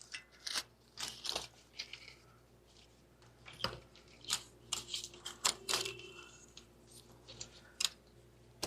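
Wiring harness being handled and pushed into place: irregular light clicks, ticks and rustles of plastic loom and connectors knocking against hoses and engine parts.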